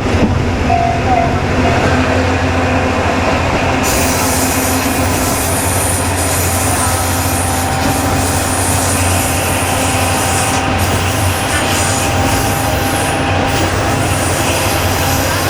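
KiHa 20 diesel railcar under way, its DMH17 diesel engine droning steadily under the rumble of wheels on rail. A brighter rushing hiss joins about four seconds in.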